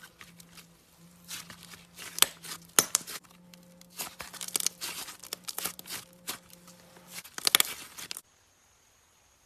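Slime being played with, giving clusters of sharp crackling and popping, loudest near the end. It stops abruptly about eight seconds in.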